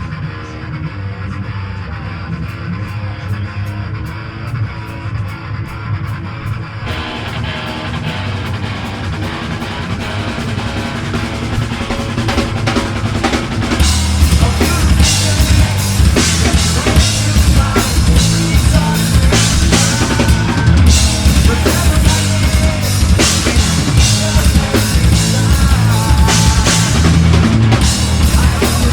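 Live metal band starting a song: drums with steady cymbal ticks, bass and guitar, building about 7 s in, with the full band coming in louder and heavier about 14 s in.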